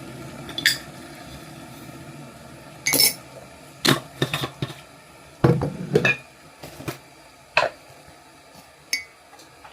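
Crockery and cutlery clinking and knocking as a cup of coffee is made: a dozen or so sharp, irregular knocks and clinks of a mug and spoon.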